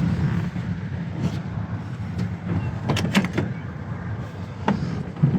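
Hand tools clinking on metal as a wrench works at a starter mounting bolt: a few short, sharp clicks, three of them close together about three seconds in, over a steady low rumble.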